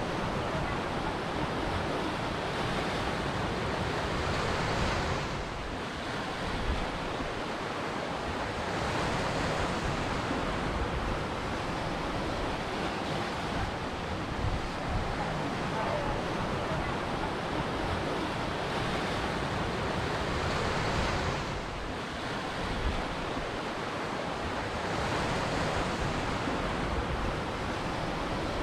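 Ocean waves breaking and washing on a shore, a continuous rush that swells and eases in slow surges every few seconds.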